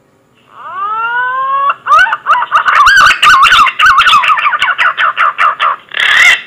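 Punai (green pigeon) call: a rising whistle, then a fast run of warbling, wavering whistled notes. It ends with two louder, harsher notes near the end.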